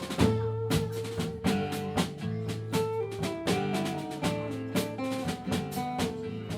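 Live country band playing an instrumental passage: drum kit keeping a steady beat under electric guitar and bass.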